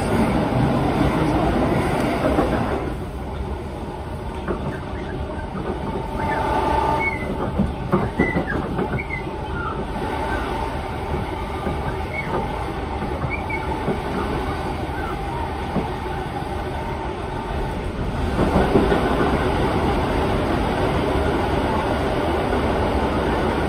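Electric passenger train running along the line, heard from inside the carriage: a steady rumble of wheels on track. A few brief high squeals come from the wheels near the middle, and the rumble grows louder again near the end.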